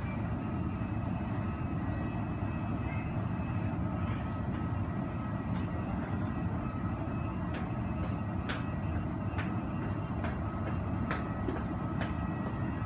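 Muffled airport and terminal noise heard through the window glass: a steady low rumble with a faint steady whine above it. A run of light clicks comes in the second half.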